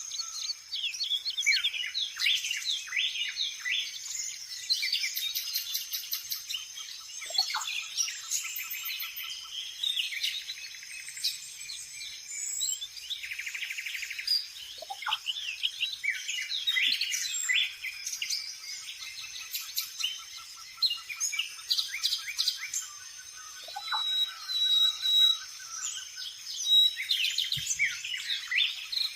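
Dense chorus of many small birds chirping and calling over one another, with quick high chirps and short trills throughout and a rapid buzzing trill about halfway through.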